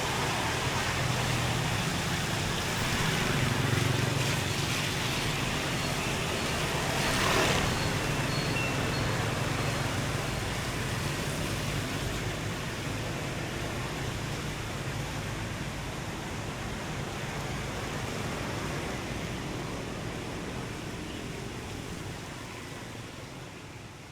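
Street traffic ambience on a wet road: a steady wash of passing vehicles with a low engine hum, one vehicle swelling louder about 7 seconds in, and the whole slowly fading near the end.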